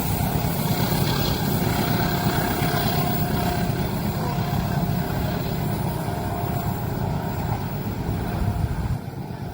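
Passing train: a steady, loud rumble of wheels on rails, dropping off sharply near the end.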